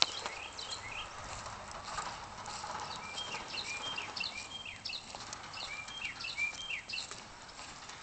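Small birds chirping in many short, high calls in quick succession, over a faint steady hiss of falling snow, with a sharp click at the start.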